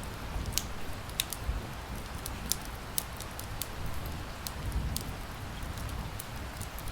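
Wood fire crackling with sharp, irregular pops over a steady hiss of rain.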